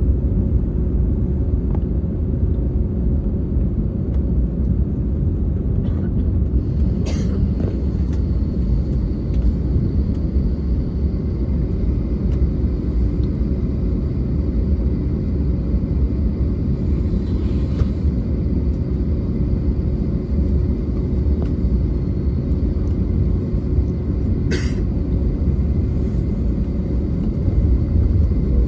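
Steady low rumble inside the cabin of an Airbus A321neo, its Pratt & Whitney PW1100G geared turbofans running at low power, with a faint steady hum over it. Two brief clicks or knocks, about a quarter of the way in and again near the end.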